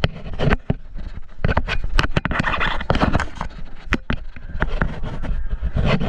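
Irregular sharp clicks, snaps and knocks over rustling and scraping, the close-up racket of airsoft play: guns firing, BBs striking and gear moving.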